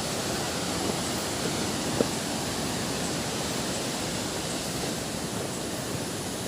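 Waterfall rushing: a steady, even hiss of falling water. A single sharp click about two seconds in.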